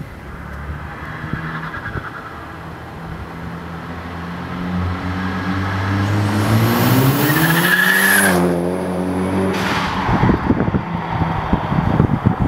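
Chevrolet Cobalt SS Turbo with a stainless steel catback exhaust accelerating, the engine and exhaust note climbing steadily in pitch and getting louder over several seconds, then dropping off, followed by a rough rushing noise as the car goes by.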